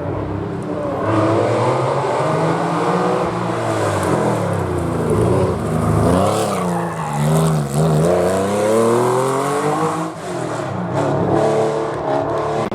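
Historic rally car's engine working through a hairpin: the pitch climbs, drops sharply twice near the middle as it brakes and changes down, then climbs again as it accelerates out.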